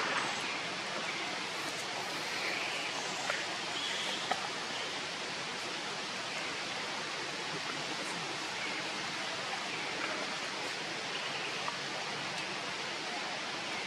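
Steady, even rushing noise, with a few faint clicks.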